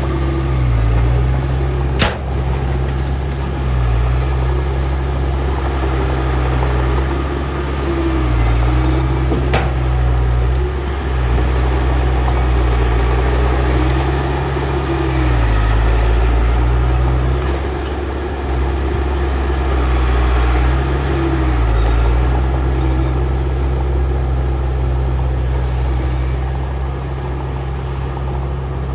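Heavy earthmoving machine's diesel engine running under load, its revs rising and falling every few seconds. Two sharp knocks come through, about two seconds in and again near ten seconds.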